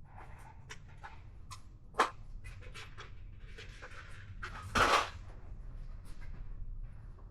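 Light clicks, knocks and scrapes of a screwdriver working rubber grommets out of a motorcycle windshield's mounting holes. There is a sharp click about two seconds in and a louder, longer scrape about five seconds in.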